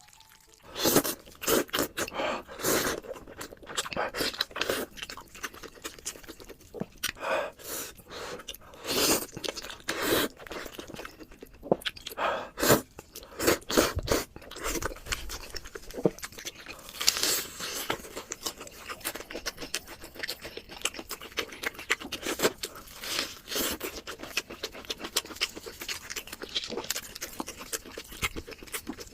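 Close-up crunching and chewing of crisp food, in irregular bites and crackles throughout, with louder crunches every second or two.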